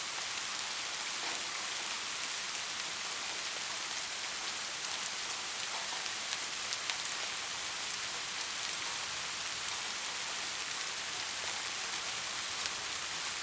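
Steady rain falling in an even hiss, with a few sharper drop ticks about halfway through.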